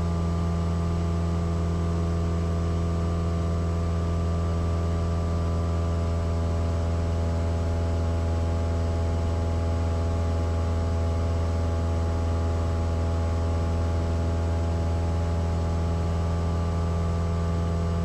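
Cessna 172S's four-cylinder Lycoming IO-360 engine and propeller running at steady cruise power in flight, a constant deep drone that holds the same pitch and level throughout.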